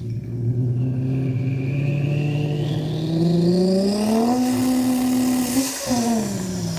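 A person imitating a turbo diesel truck with his mouth: a buzzing vocal drone that climbs slowly in pitch over about four seconds like an engine revving up, holds, dips briefly, then falls away. A thin whistle rises above it like a turbo spooling.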